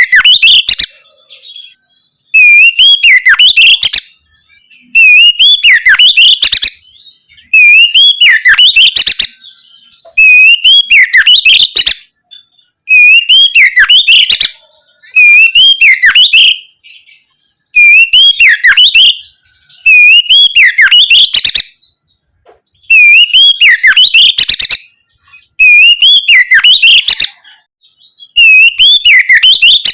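Oriental magpie-robin (kacer) singing loudly, the same whistled song phrase repeated about every two and a half seconds with a short gap between phrases.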